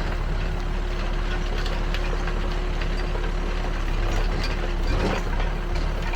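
Backhoe loader's diesel engine running steadily with a steady whine, and light clanks and rattles from the machine. There is a louder clatter about five seconds in.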